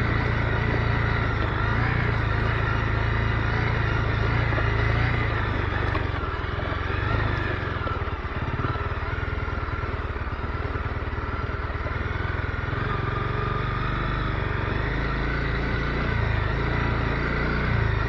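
Honda CB250R's single-cylinder four-stroke engine running on the move, with wind and road noise; the engine note eases off about halfway through, then picks up again.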